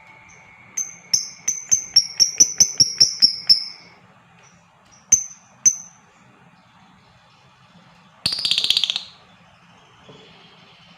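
Lovebirds calling: a run of about a dozen sharp, high chirps in quick succession, two more single chirps, then a short, rapid chattering burst near the end.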